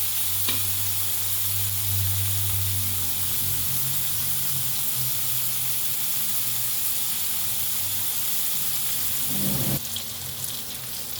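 Frozen mixed vegetables sizzling steadily as they fry in hot oil in a pan. The sizzle drops noticeably near the end.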